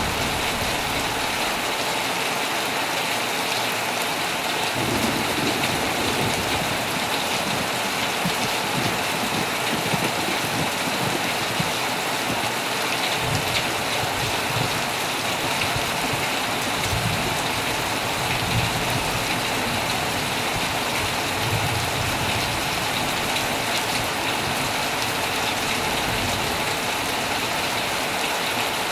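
Heavy rain falling steadily on a tent, with low rumbles of thunder swelling now and then.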